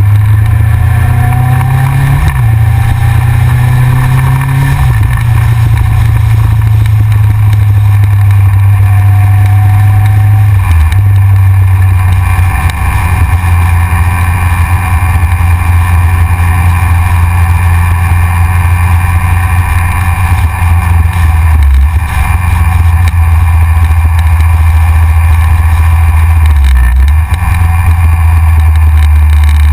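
Yamaha XJR's air-cooled inline-four motorcycle engine running at road speed, loud and steady with a heavy low rumble. Its pitch rises through the first few seconds as it pulls through the gears, and it briefly dips about 11, 22 and 27 seconds in.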